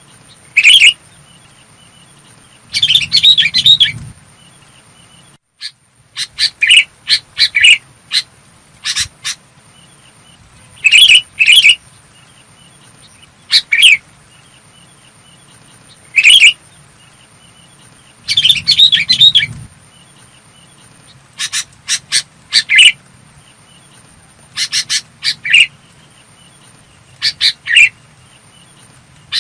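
Sooty-headed bulbul singing: short, clear phrases of quick notes repeated every second or two, with a longer, busier phrase twice.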